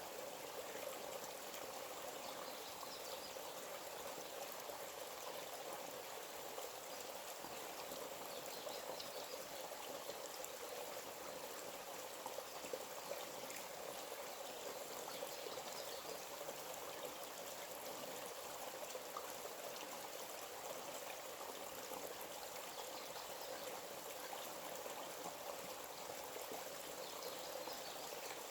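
A forest stream flowing, its water running with a steady, unbroken rush.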